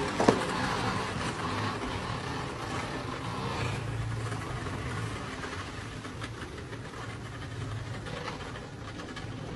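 A car engine running steadily as the car manoeuvres on snow and ice, with a brief sharp knock about a third of a second in.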